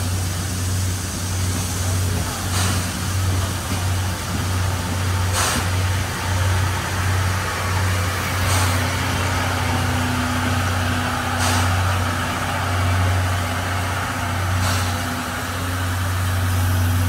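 SL Taiju passenger train rolling slowly past on the adjacent track: a steady low engine hum with a short hiss about every three seconds.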